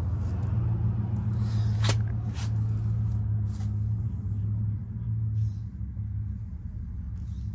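A steady low hum with a few light clicks over it, about two seconds in and again near the middle.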